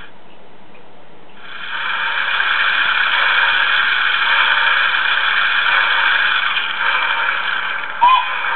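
Soundtraxx Tsunami sound decoder in a Bachmann On30 Forney model locomotive playing a steady hissing rush through its small speaker. The hiss starts about a second and a half in after a quiet moment, and a sharp click with a short chirp comes near the end.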